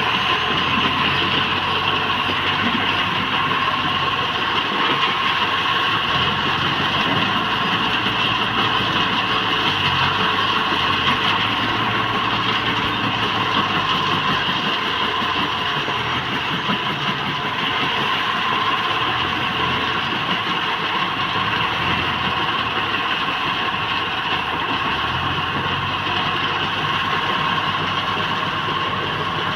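Diesel engine of heavy earth-moving machinery running continuously, its low engine note rising and falling as the load changes, with a steady higher whine over it.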